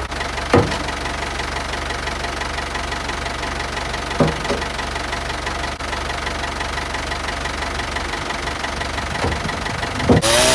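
Ford 5610 tractor's diesel engine idling steadily as it warms up just after a cold start, with a few short clunks.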